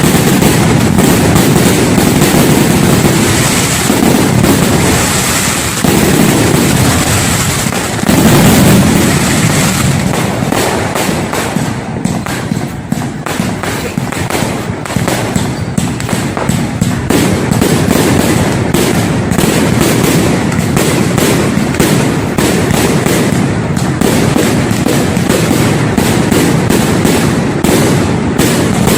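Fireworks display: a dense, continuous barrage of aerial shell bursts and crackling, with a heavy rumble underneath and a louder burst about eight seconds in.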